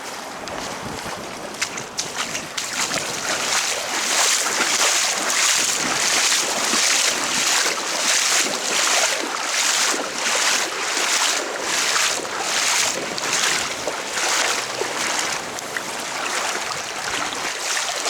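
Legs wading through knee-deep floodwater, a rhythmic swish and slosh with each stride, about one and a half steps a second.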